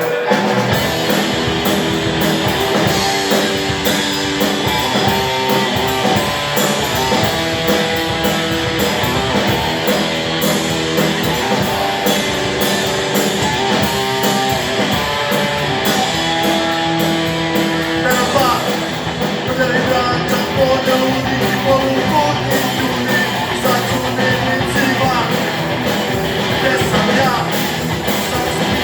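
Rock band playing live: electric guitar chords over bass and drums with a steady beat. About eighteen seconds in the arrangement changes and a wavering melodic line comes in over the band.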